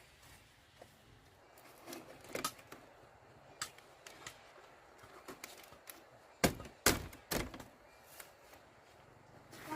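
Scattered knocks and clicks of hard objects, with three loud knocks about half a second apart just past the middle.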